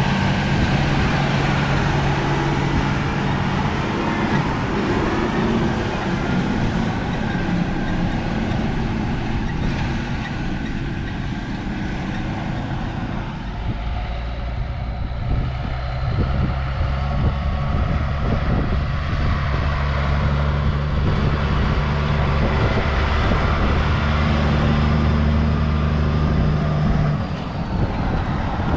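Heavy diesel harvest machinery running steadily. About halfway through, a deeper, stronger engine note joins in and holds until shortly before the end.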